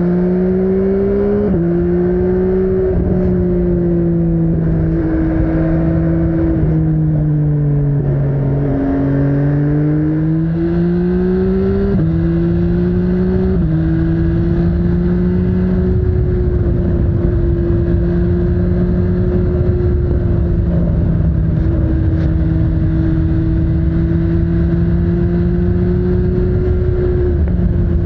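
MV Agusta Brutale 800's inline three-cylinder engine under way: its note climbs under throttle and drops a step at each upshift, dips and climbs again around the middle, then settles into a steady cruising note for the second half.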